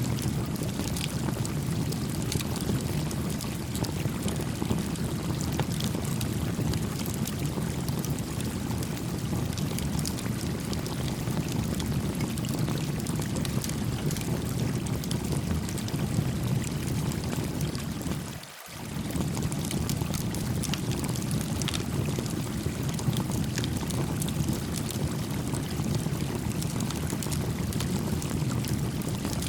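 Stream water flowing and babbling steadily, with small crackles from a campfire. The sound briefly dips out about two thirds of the way through.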